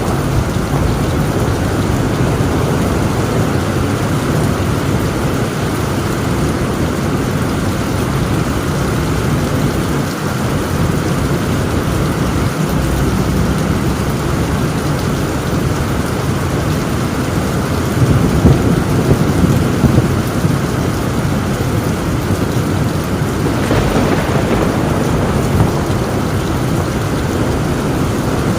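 Torrential rain drumming on a tin roof under continuous low rolling thunder. The thunder swells to a louder rumble about two-thirds of the way through.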